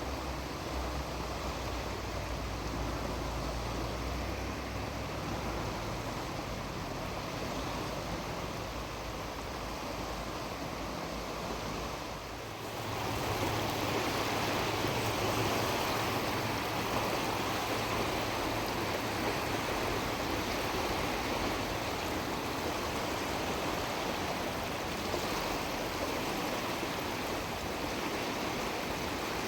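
Ocean surf washing onto a beach, a steady rush of noise. A low rumble lies under it for the first twelve seconds; then the sound dips briefly and comes back louder.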